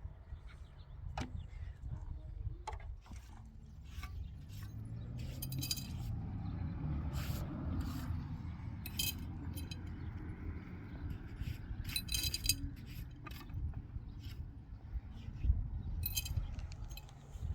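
Metal jingling and clinking in short clusters a few seconds apart, with scattered knocks over a steady low rumble.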